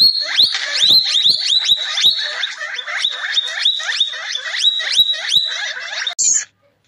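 An animal's rapid high squeaks, each falling in pitch, about three a second, with a few soft knocks among them. They stop shortly before the end.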